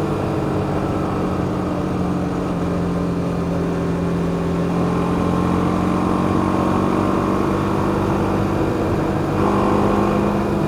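BMW G 310 GS single-cylinder engine running at a steady cruise, its pitch drifting gently up and down, under a layer of wind noise.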